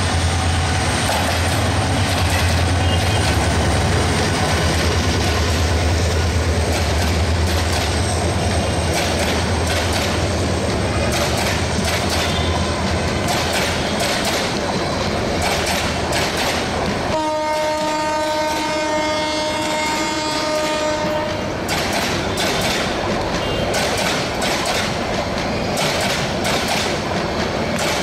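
GM-EMD GT18LA-2 diesel-electric locomotive passing with a deep engine hum, then its passenger coaches rumbling and clattering over the rail joints. About 17 seconds in, a train horn sounds one steady chord for about four seconds, then the wheel clatter continues.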